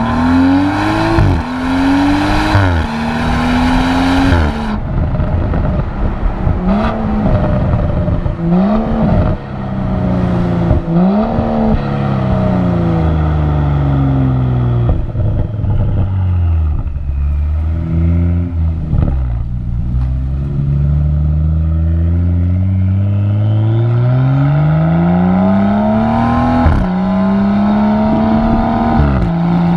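BMW X4 M40i's 3.0-litre turbocharged straight-six and exhaust under hard acceleration. The engine climbs quickly through two upshifts, each a sudden drop in pitch. It then gives several short rises and falls in revs and a long fall, then climbs steadily again to another upshift near the end.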